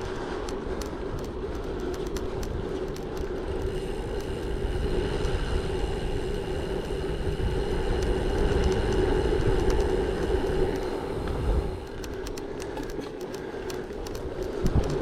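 Gravel bike riding along: a steady rumble of tyres on the surface and wind noise on the microphone, with a hum that swells through the middle and fades again. Scattered sharp clicks come near the start and end.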